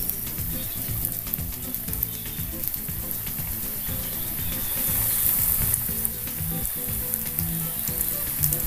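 Rice-flour-coated snack pieces sizzling and crackling as they shallow-fry in hot sunflower oil in a pan. The sizzle swells for a moment about five seconds in.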